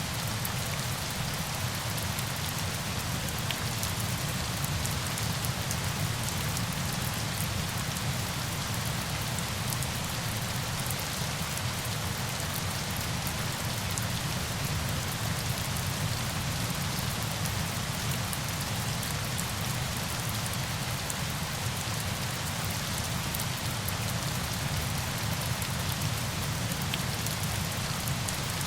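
Steady falling water: an even, unbroken hiss with a fine patter of drops.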